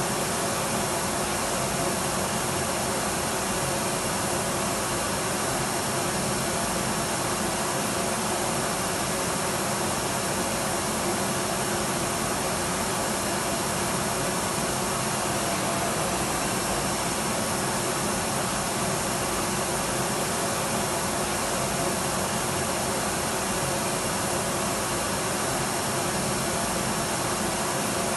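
Electric vacuum cleaner running steadily, a continuous even motor whir with a faint steady hum.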